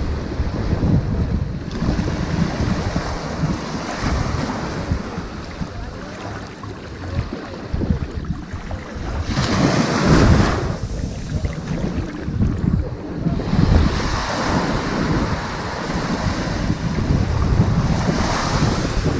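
Ocean surf washing up onto a sandy beach in repeated swells, one wash about halfway through louder and brighter than the rest. Wind rumbles on the microphone throughout.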